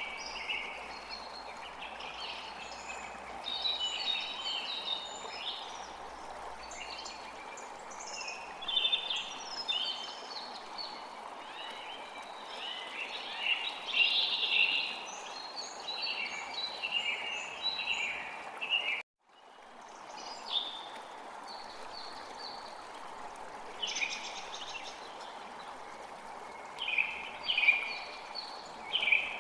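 Birds chirping and calling over the steady rush of running water. About two-thirds of the way through, all sound cuts out for a moment and then fades back in.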